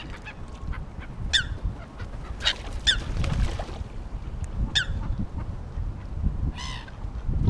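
Gulls calling over the water: several short, harsh calls that drop in pitch, then one longer ringing call near the end.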